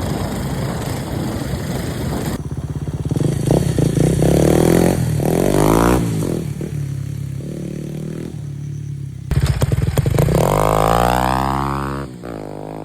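Kawasaki KLX230's single-cylinder four-stroke engine through an aftermarket Norifumi exhaust, revving up and down repeatedly while riding off-road. The first couple of seconds are an even rushing noise, and near the end the revs climb hard and then fall away.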